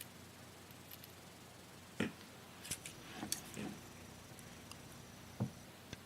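A few faint, sharp clicks and light knocks of small tools and parts being handled at a soldering bench, about five in all, with the clearest ones about two seconds in and near the end.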